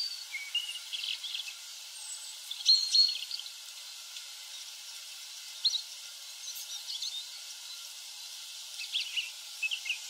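Small birds giving short, high chirps at irregular intervals over a faint steady hiss of woodland ambience.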